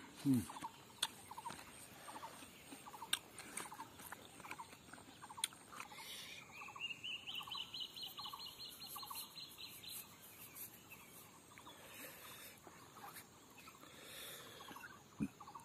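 Faint bird calls: a string of short repeated notes through the first half, with a long high drawn-out tone that rises and then holds from about six to ten seconds in. A few clicks near the start.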